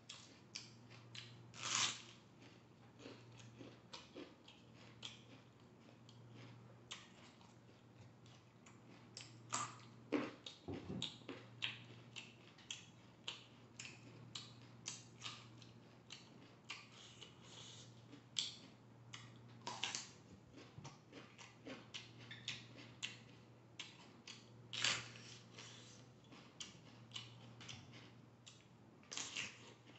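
Close-up crunching and chewing of raw vegetables: many short crisp crackles, with a few louder bites scattered through.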